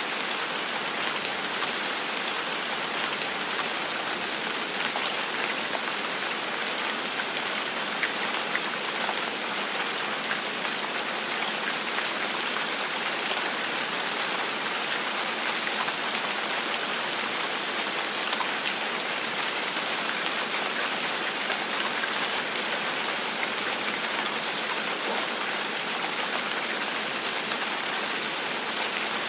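Steady gentle rain falling, an even hiss of many drops with scattered single drops ticking through it.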